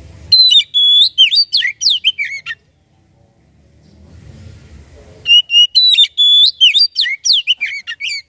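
Oriental magpie-robin singing: two loud phrases of rapid, sweeping whistled notes, separated by a pause of nearly three seconds.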